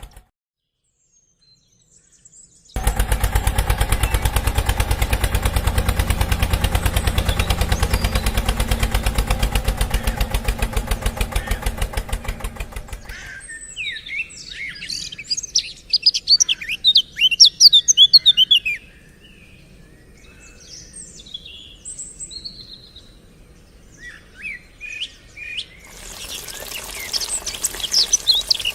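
A small engine runs with a rapid, even beat for about ten seconds and then stops. Birds chirping follow, loudest a few seconds after the engine stops, then fainter.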